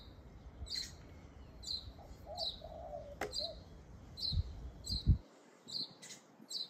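A small bird chirping over and over, short high chirps about one or two a second, with a low rumble that ends in a single loud low thump about five seconds in.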